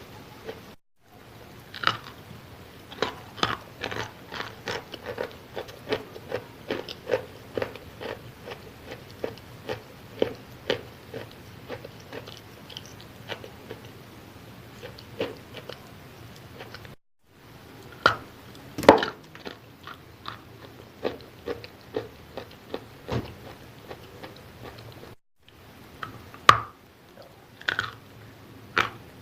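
Close-up biting and chewing of wet edible chalk: a steady run of crisp crunches, several a second, broken by three brief silent gaps, with the loudest bites in the second half.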